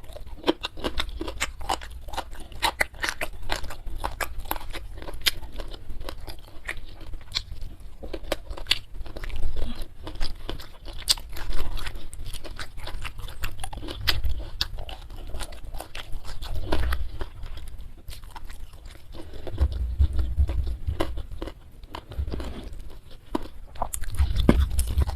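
Close-miked chewing and crunching of food in the mouth, with many sharp wet clicks throughout and heavier low thuds at times.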